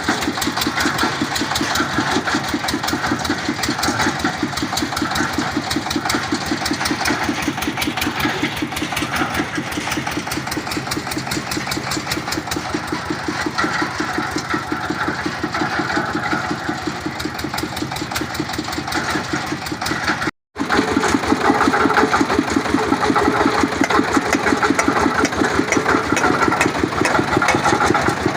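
Engine of a water-well boring rig running steadily with a rapid, even chugging beat. It breaks off for an instant about two-thirds of the way through, then carries on a little louder.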